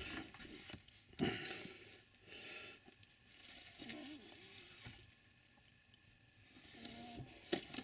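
A rag dampened with surgical spirit rubbed along model railway track: faint, uneven scraping and rubbing, with a sharp click near the end.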